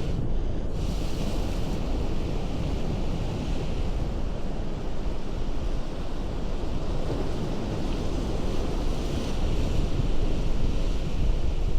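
Ocean surf breaking and washing over a rocky shore: a steady, rumbling rush of water with wind on the microphone, growing slightly louder near the end.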